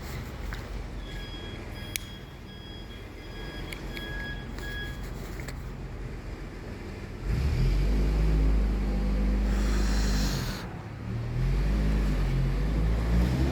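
A heavy machine's engine running, rising to a loud, deep run about seven seconds in and easing briefly near ten and a half seconds before coming back up. Faint steady high tones sound over the quieter engine in the first few seconds.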